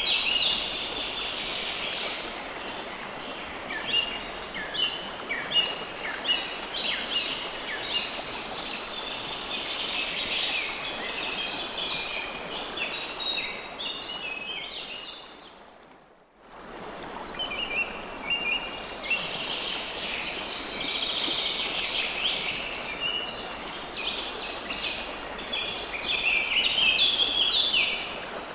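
Steady flowing river water with many small birds chirping in quick, overlapping calls. About halfway through, the whole soundscape fades out almost to silence and fades back in, like a loop join.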